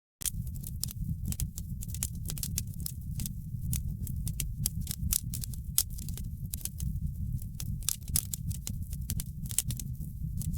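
Wood fire in a fireplace crackling: frequent sharp snaps and pops over a steady low rumble of the burning fire.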